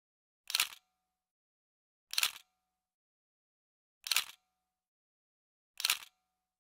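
Camera shutter sound, four identical clicks about every second and a half to two seconds, each with a short faint ring at its end, with dead silence between them.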